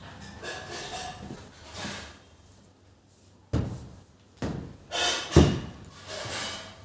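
Household handling sounds: soft rubbing and scraping, then several sharp knocks in the second half, the loudest about five and a half seconds in, like a drawer or cabinet door being shut or objects set down.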